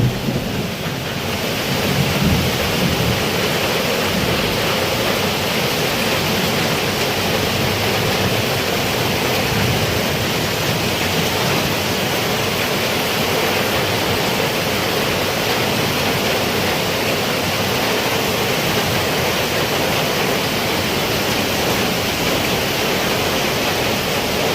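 Heavy rain pouring down steadily, with a brief low rumble about two seconds in.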